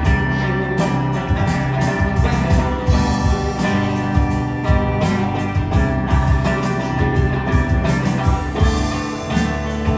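Rock band music with electric guitar, bass and drums keeping a steady beat.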